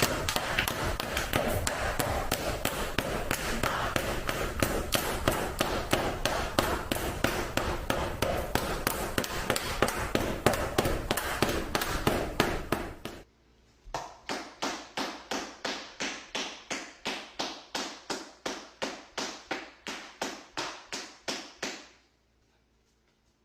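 Rapid, even slapping claps of buttocks striking together (a 'booty clap'), about four a second over a steady noisy background. After a short break about 13 seconds in they go on cleaner at about three a second, then stop near the end.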